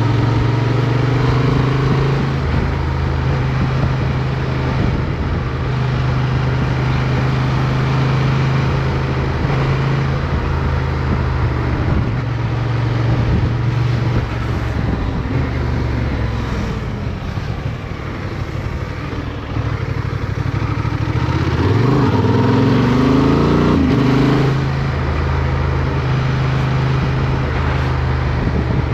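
Motorcycle engine heard from onboard, running at steady revs, easing off for a few seconds in the middle, then revving up in a rising sweep about two-thirds of the way through before settling back to a steady note.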